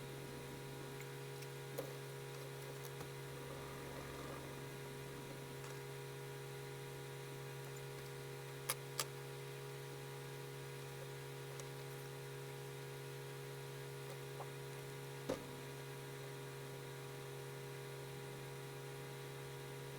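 Steady low electrical hum with a few short sharp clicks: two close together about nine seconds in and another about fifteen seconds in.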